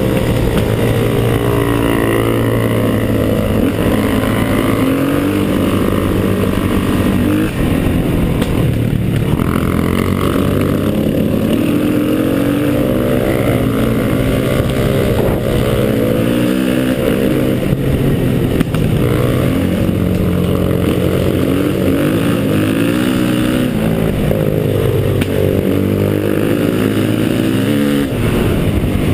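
Motorcycle engine running under load on an uphill climb, its revs rising and falling repeatedly.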